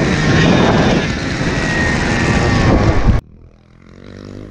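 Dirt bike engine running hard under riding, with heavy wind noise on the microphone, cutting off abruptly about three seconds in. A quieter motorcycle engine then runs at low speed, growing louder near the end.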